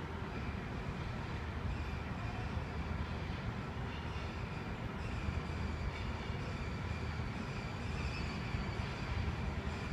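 Freight train approaching at a station: a steady low rumble, with a faint high squeal from the wheels building up in the second half as it slows to arrive.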